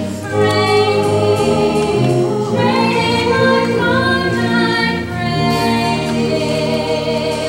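The closing bars of a stage-musical song: voices hold long notes together over the accompaniment, the chord changing a few times.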